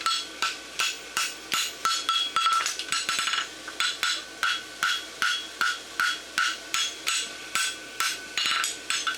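Hand hammer striking a hot steel horseshoe bar on the anvil, drawing out the outside branch. The blows come at about two to three a second, each with a short metallic ring, with a quicker run of lighter blows about three seconds in.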